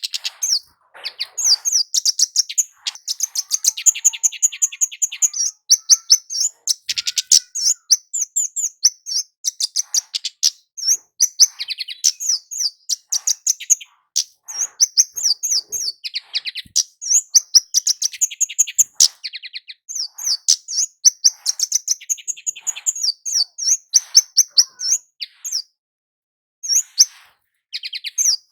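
Flowerpecker (kemade, 'cit keres') calling in rapid strings of high, sharp chip notes, with a short pause near the end.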